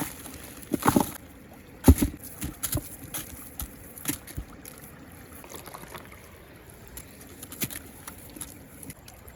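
Muddy water sloshing and splashing: a few short, sharp splashes, the loudest about two seconds in, over a steady wash of moving water.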